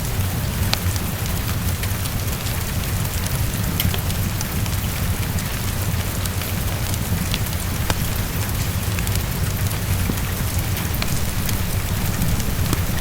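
Steady heavy rain, with a low rumble underneath and scattered small clicks and pops that fit a crackling fireplace.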